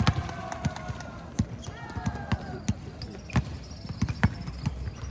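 Basketball bouncing on a court floor in irregular knocks during a game, with players' voices calling out over it.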